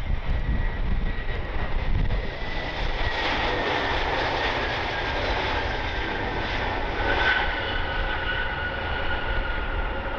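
Airbus A321 jet airliner on approach passing by: a steady engine roar with a high whine that slowly falls in pitch, over low wind rumble on the microphone.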